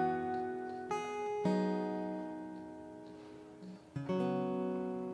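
Background music: acoustic guitar strumming chords with no vocal. One chord rings out and slowly fades before the strumming picks up again near the end.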